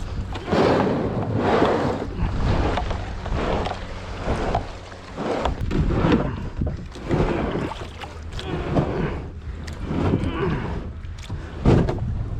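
Water sloshing and splashing around a kayak in irregular surges, with wind rumbling on the microphone.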